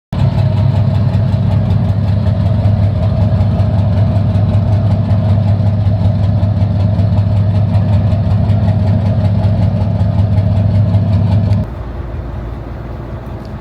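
The boat's engines running steadily with a deep, even hum. About twelve seconds in the sound drops suddenly to a quieter engine hum.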